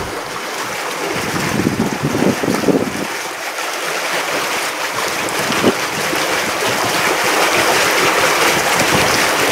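Wind buffeting the microphone over a steady rushing noise that slowly grows louder.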